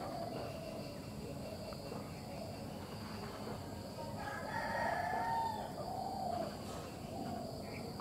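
A bird's long wavering call about four seconds in, followed by two shorter calls, over a steady high insect buzz.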